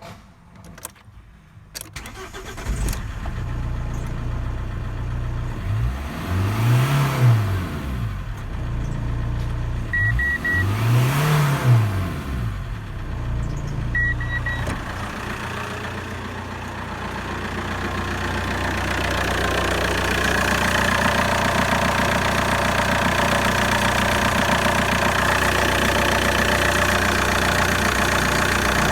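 Fiat 1.9 JTD four-cylinder common-rail turbodiesel being started, blipped up and back down twice, then left idling steadily. Short electronic beeps sound twice, around the first rev.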